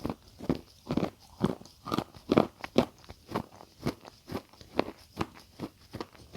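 Close-miked chewing of crunchy food, a steady run of sharp crunches about two to three a second.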